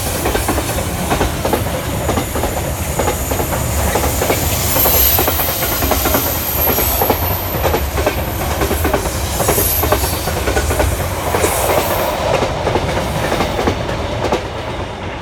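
Freight train hauled by a Class 66 diesel locomotive passing through, its wagons rumbling and clattering over the rail joints, easing off near the end.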